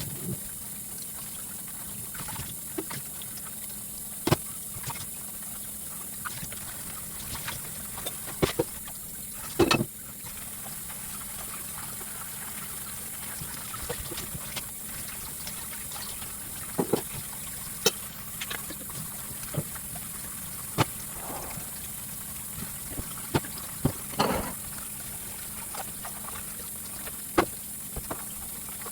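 Kitchen cooking sounds: scattered light clinks and knocks, like a utensil against a pan, over a steady hum.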